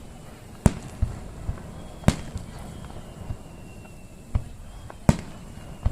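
Aerial firework shells bursting: three loud, sharp booms a second or more apart, with several smaller pops between them.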